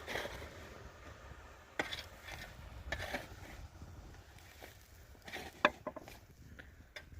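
A few scattered light knocks and clatters, hard objects being handled, the clearest about two, three and five and a half seconds in.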